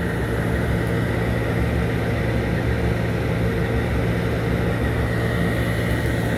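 CSX diesel locomotive No. 156 idling, a steady low engine hum with an even, unchanging pitch.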